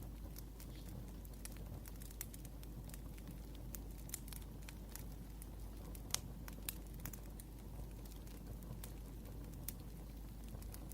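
Wood fire crackling, with irregular sharp pops and snaps, the loudest about six seconds in, over a low steady rumble.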